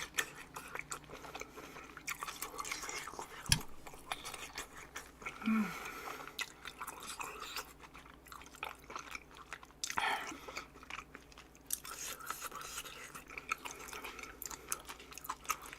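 Close-up chewing of fatty boiled pork belly (bossam), with wet mouth sounds and many small clicks and crunches. One sharp click about three and a half seconds in is the loudest sound.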